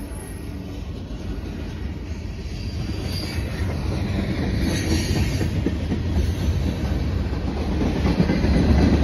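Norfolk Southern manifest freight train rolling past: a steady rumble of freight cars with wheels clacking over rail joints, growing louder toward the end. Brief high wheel squeal comes near the start and again about three seconds in.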